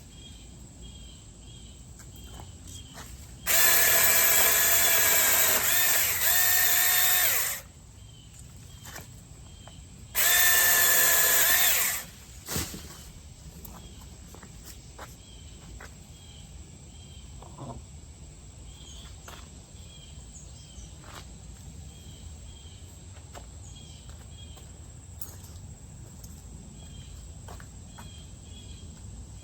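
Beihong mini cordless electric chainsaw running in two bursts, one of about four seconds and one of about two, with a steady high motor whine. Between and after the bursts there is only faint outdoor background with light ticks.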